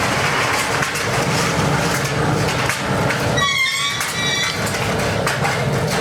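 Steady metal-workshop clatter: continuous rattling and knocking of metal, with a brief high metallic squeal about three and a half seconds in.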